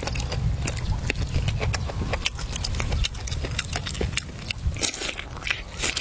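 Close-up eating sounds: irregular wet clicks and smacks of chewing, over a steady low rumble.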